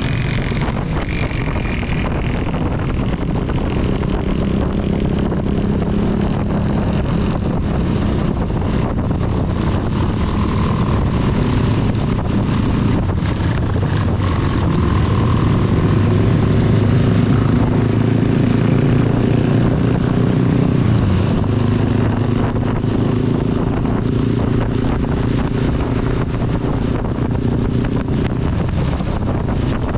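CB 250 motorcycle engine running under way, its note shifting with the throttle and dipping about two-thirds of the way through, over a steady hiss of rain and wind on the microphone.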